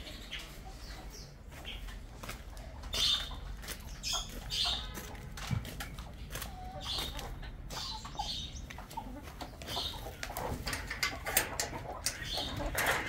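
Birds calling in short high chirps every second or two, over the clicks and scuffs of footsteps and handling.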